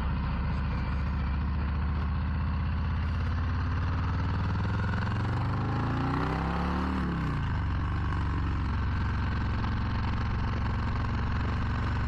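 Harley-Davidson Low Rider ST's Milwaukee-Eight 117 V-twin engine running steadily, with its pitch rising and falling back once about halfway through.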